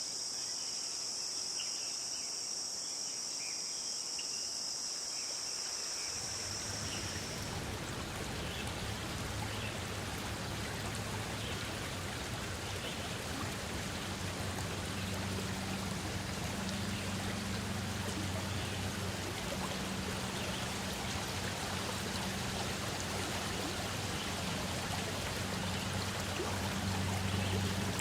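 Insects trilling steadily at a high pitch, cut off about seven seconds in and replaced by running water: a stream rushing evenly, with a low steady rumble underneath.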